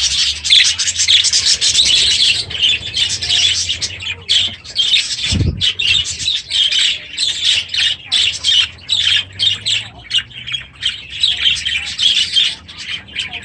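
Flock of budgerigars chattering and squawking continuously in rapid short chirps, with a single dull thump about five and a half seconds in.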